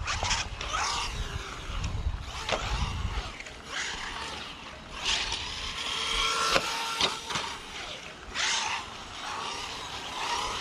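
Bezgar HM124 1/12-scale brushless RC car being driven hard: its electric motor whines up and down in pitch with repeated bursts of throttle, mixed with bursts of noise from the tires on the ground.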